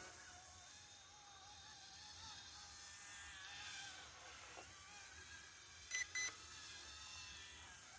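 Two short electronic beeps in quick succession about six seconds in, over faint background with wavering high tones.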